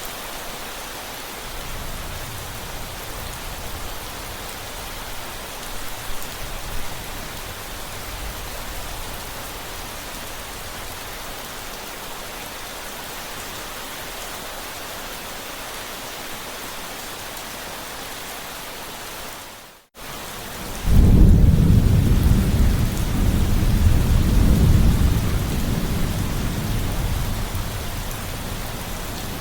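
Steady rain falling, with faint low thunder rumbles in the first few seconds. About two-thirds of the way in the sound drops out for a moment, then a loud rolling rumble of thunder comes in under the rain and slowly eases.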